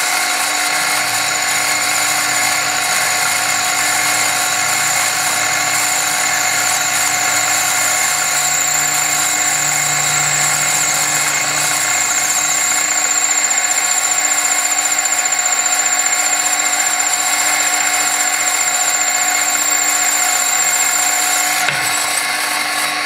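Drill running steadily with a high whine as a centre drill bores a hole through a metal workpiece held in a vise; the sound changes shortly before the end.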